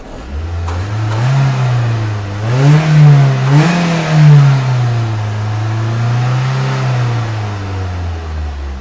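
2007 Ford Focus ZX3's 2.0-litre four-cylinder engine being revved in several throttle blips, its pitch rising and falling, then held at a steady rev and dropping back toward idle near the end. The engine note is buzzy.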